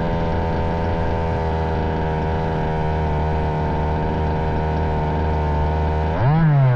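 Two-stroke petrol engine of a 1/5-scale RC buggy running at a steady, high speed, then briefly revving up and dropping back near the end.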